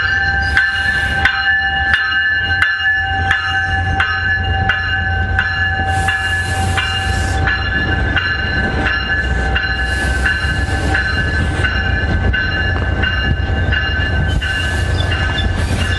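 Train at close range: a steady low rumble under several steady ringing tones struck over and over in an even rhythm, with short hisses of air about 6, 10 and 14 seconds in.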